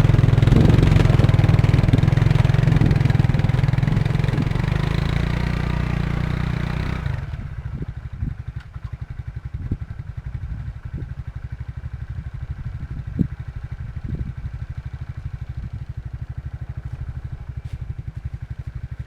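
Suzuki QuadRunner 300 ATV engine running hard, as the quad is worked back and forth to break it free of the frozen ground. About seven seconds in it drops to a steady idle, with a few short knocks.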